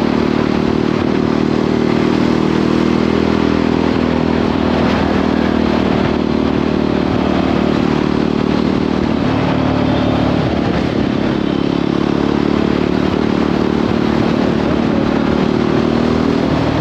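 Jawa 42 motorcycle's single-cylinder engine running steadily at highway cruising speed, with wind and road noise over it. The engine note shifts slightly about ten seconds in.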